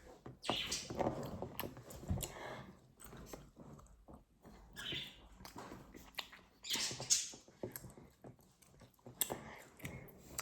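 Plastic toy figures and packaging being handled: irregular rustling with scattered light clicks and taps.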